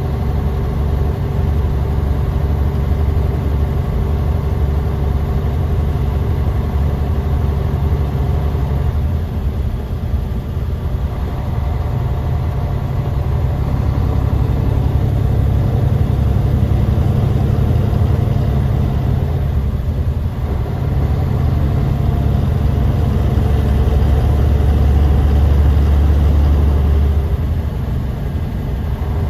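Bus engine and road noise heard inside the cabin while the bus is driving: a steady deep drone with faint tones above it that drift slightly in pitch. The level swells a little in the middle and eases off near the end.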